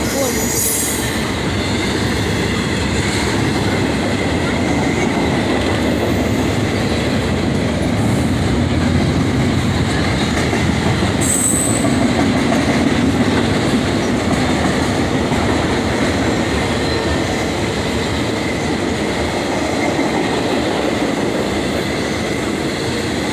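A train rolling past on the rails: a steady loud rumble of wheels and cars, with a thin high wheel squeal held throughout and short bursts of high hiss about half a second in and again about eleven seconds in.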